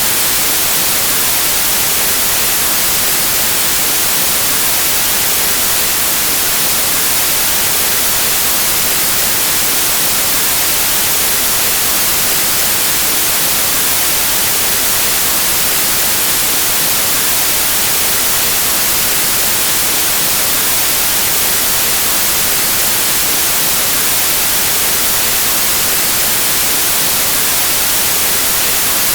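Steady white noise: an even, unchanging static hiss, brightest in the highs.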